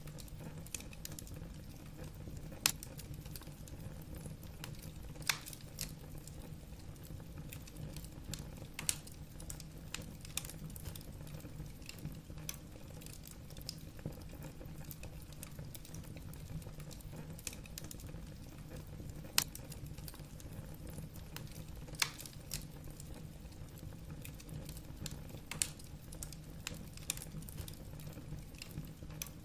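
Firewood crackling in a fireplace: irregular small snaps and pops over a steady low background, with a louder sharp pop every few seconds.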